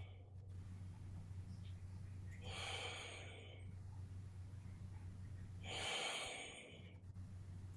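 A person breathing slowly and audibly close to the microphone, twice, about three seconds apart, over a steady low hum.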